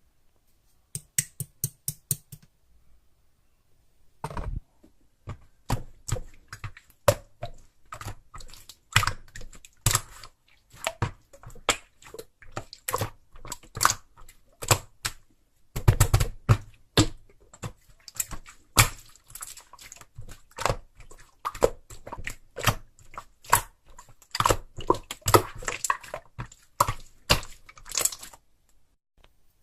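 Slime being squeezed and poked by hand, making a fast, irregular run of sharp wet clicks and pops, with a brief pause about three seconds in.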